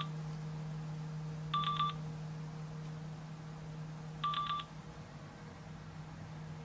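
Two short electronic beeps, about three seconds apart, over a steady electrical hum.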